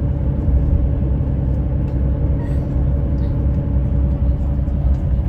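Steady low rumble of a moving vehicle, with a faint constant hum above it.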